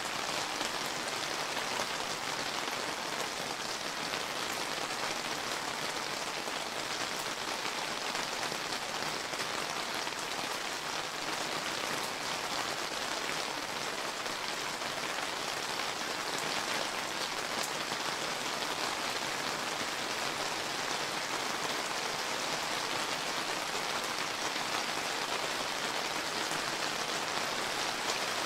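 Steady summer rain falling and pattering on surfaces, an even hiss with many small drop ticks.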